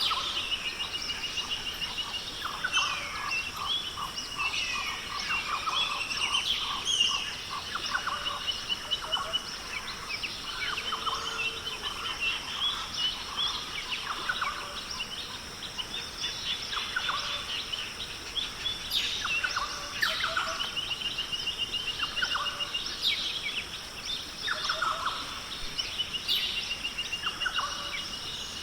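Australian rainforest bird chorus: many birds calling at once with chirps, whistles and rapid trills, over a steady high-pitched drone.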